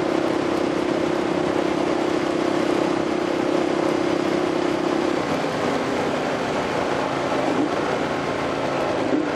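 Motorcycle engine running at a steady cruise, its note dropping to a lower pitch about five seconds in as the bike slows, with steady wind rush over the rider's microphone.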